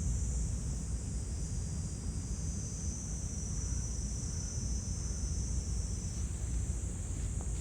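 Steady, high-pitched insect chorus over a continuous low rumble.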